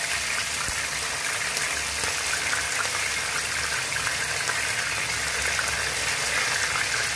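Chicken wings shallow-frying in hot oil in a wok: a steady sizzle with fine crackling.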